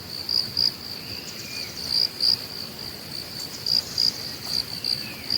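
Insects chirping in a tropical forest: a steady high trill with louder chirps, often in pairs, every second or so, and faint arching whistled calls beneath it.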